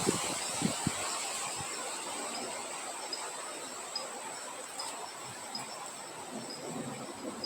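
Wind ambience: a steady wind hiss with a continuous high insect trill and a cricket chirping about once every three-quarters of a second. A few soft low rustles or thumps come near the start.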